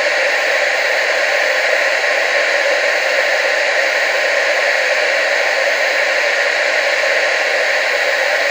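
Television static: a steady, unchanging hiss with little bass.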